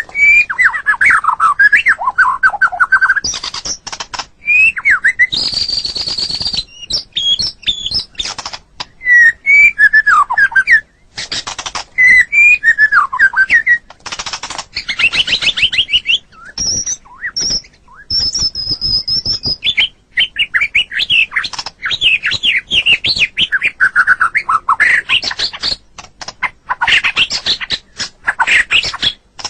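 White-rumped shama (murai batu) singing a long, varied song of loud whistled phrases and rapid note runs that rise and fall in pitch. There is a harsh, buzzy phrase about six seconds in and high, thin, held whistles a little past the middle.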